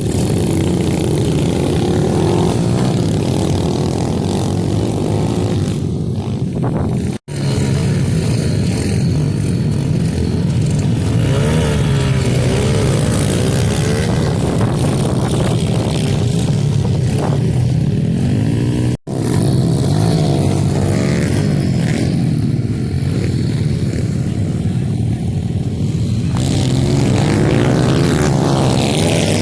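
Small dirt-bike (pit bike) engines running and revving, the pitch repeatedly sweeping up and down with throttle and gear changes, in three stretches separated by abrupt cuts.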